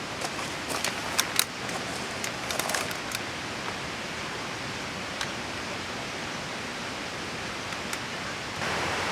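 Steady rushing noise with several sharp clicks and taps in the first three seconds; the noise steps up louder just before the end.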